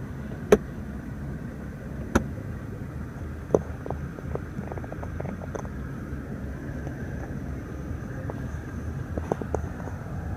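Sharp clicks of car interior buttons and trim latches being worked by hand, three louder ones in the first few seconds, then clusters of lighter clicks, over a steady low rumble.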